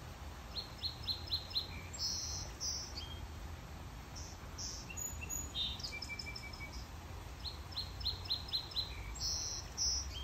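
A songbird singing outdoors, a phrase of about five quick down-slurred notes followed by buzzy notes, heard twice, with a few scattered chirps in between, over a steady low background rumble.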